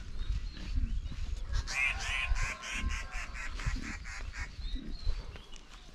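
A bird calling a quick run of about eight repeated notes, about four a second, for about two seconds starting a little under two seconds in.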